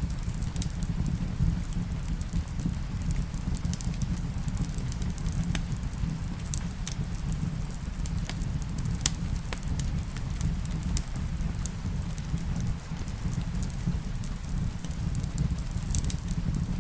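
Wood fire crackling in a fireplace: scattered sharp pops and clicks over a steady low rumble, blended with steady rain.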